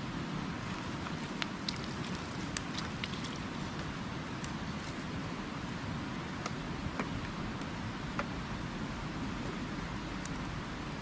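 Newly lit wood campfire crackling, with scattered sharp pops about ten times, over a steady rush of flowing river water.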